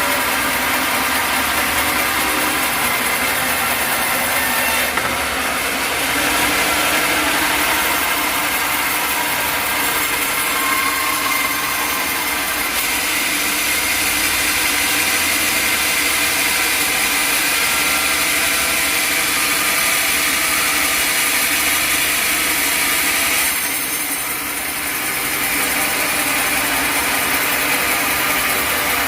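Engine-driven sawmill running steadily, its saw blade cutting lengthwise through a log of hard acacia wood. The sound drops briefly about three-quarters of the way through, then carries on.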